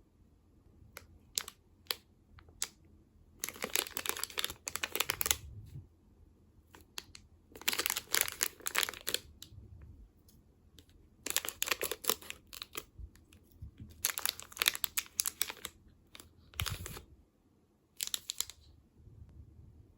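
Plastic snack packaging crinkling as it is handled, in about six separate bursts of a second or two each, with short clicks in between.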